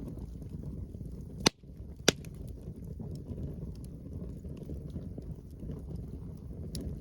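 Wood campfire crackling with faint scattered ticks, and two loud sharp pops about half a second apart near the start, over a steady low rumble of wind.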